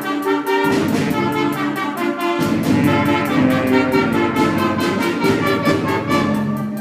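School concert band playing, woodwinds and brass together in sustained chords under a moving melody. The low parts drop away briefly near the start and come back in about two and a half seconds in.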